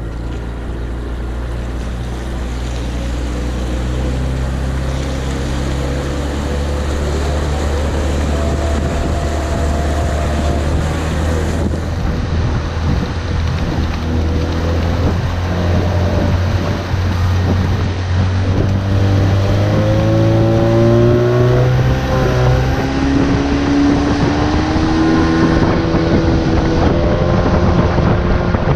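Brushless electric motor of a radio-controlled boat running, its whine rising and falling in pitch as the throttle changes, over a steady low rumble and wind on the microphone.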